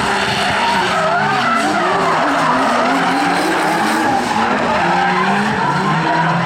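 Two drift cars in a tandem battle, their engines revving up and down continuously while their tyres screech through the slide.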